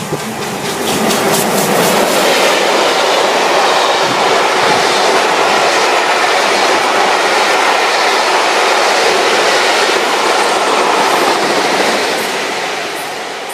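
A steam-hauled train's carriages rolling past close by, the wheels clattering over the rail joints in a loud, steady rush, with quick regular clicks at first and a fade beginning near the end.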